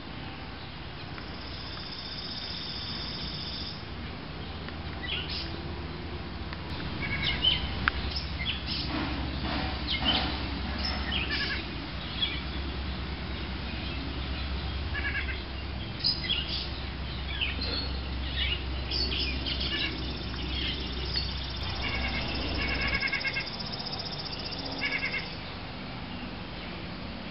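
Birds chirping and singing, many short high calls and trills. Under them is a low rumble that stops a few seconds before the end.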